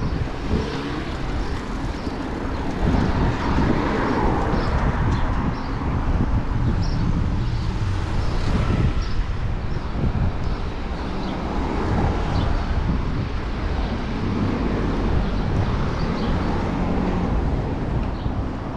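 Wind rushing over the microphone of a moving bicycle, with city traffic going by.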